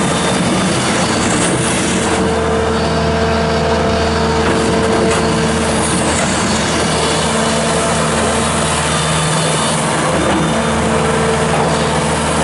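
Bobcat S650 skid steer loader's Kubota V3307 four-cylinder diesel engine running loud and steady while the machine is operated.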